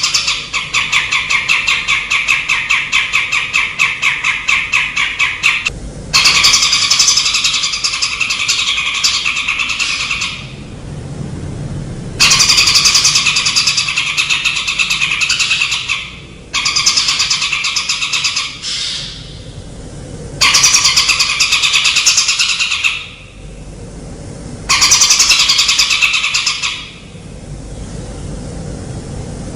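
Masteran birdsong recording: a songbird's rapid, buzzy trill runs for about six seconds, then comes in repeated two-to-four-second bursts with short pauses between.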